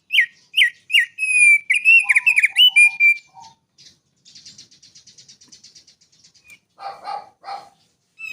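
A small songbird sings a run of loud, clear whistled notes with quick downward slurs for about three seconds. A faint, fast buzzy trill follows, then two harsh rasping calls near the end.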